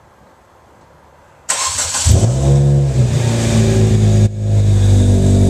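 Hyundai Tiburon four-cylinder engine, on new headers with no catalytic converters and an exhaust leak, cranking and catching about a second and a half in, then running loud with a brief rev.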